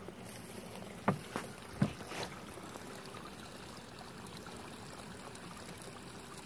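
Honeybees from a freshly opened top-bar hive buzzing around it in a steady hum, with two short knocks about one and two seconds in.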